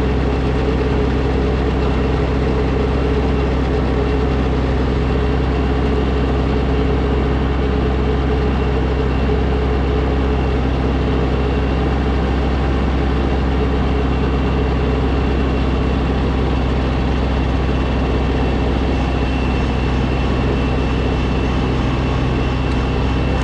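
Snowblower engine running steadily at a constant speed.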